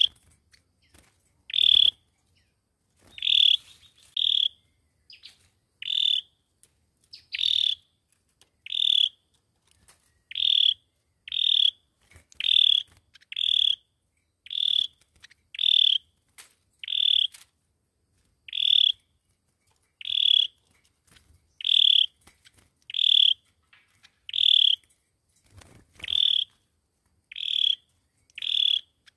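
A chim sâu dừa bird calling: short, sharp notes repeated about once a second, steady and evenly spaced.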